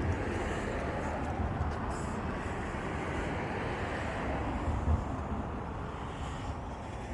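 Steady road traffic noise, a continuous rumbling hiss of passing vehicles that eases off slightly near the end.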